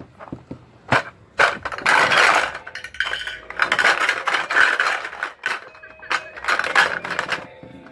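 Hard plastic toy train clattering and knocking as it is handled and pushed about. There are several sharp knocks and a few stretches of rattling, about a second long each.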